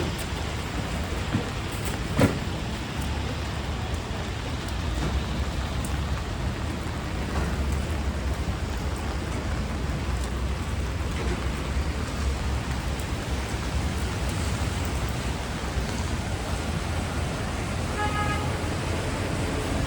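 Steady rain falling on a city street, with a low traffic rumble from passing vehicles underneath. A single sharp knock sounds about two seconds in.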